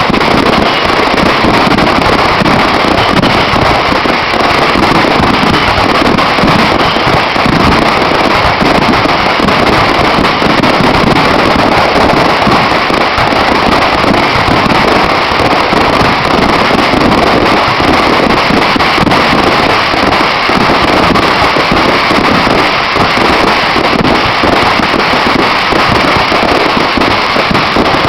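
Fireworks going off in a dense, continuous barrage of bangs and crackles, loud and unbroken throughout.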